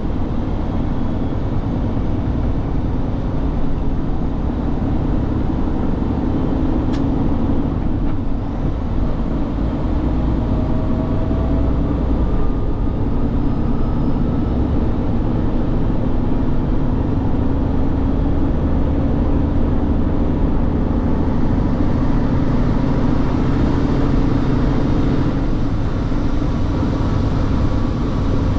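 Semi truck driving, its engine and road noise a steady low rumble.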